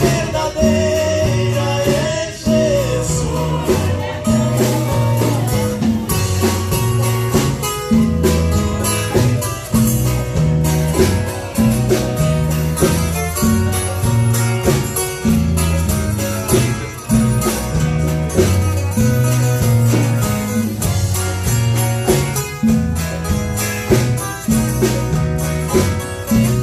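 Live gospel band music: guitar over a steady, rhythmic bass line, with a melody line gliding in pitch near the start.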